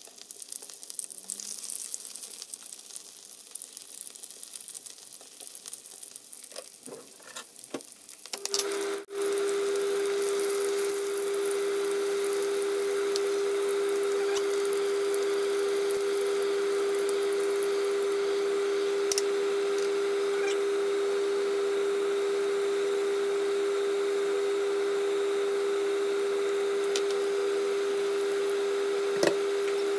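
Chicken pieces sizzling in hot oil in a frying pan. About eight seconds in, a steady mechanical hum at one pitch with an even hiss starts and holds at the same loudness to the end, covering the sizzle.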